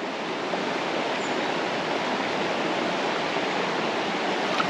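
Creek water rushing over rocks in a steady, even rush of noise.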